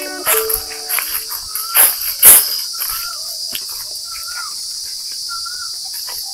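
A steady high-pitched drone of insects in dry woodland, with crackling footsteps in dry leaf litter, loudest about two seconds in, and a short repeated chirp roughly once a second.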